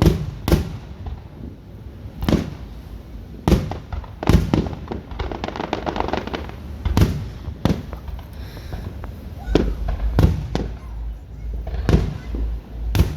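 Fireworks going off: a string of sharp bangs from aerial shells, spaced irregularly about every second or so, with a quick run of crackling about four to six seconds in and a low rumbling in the second half.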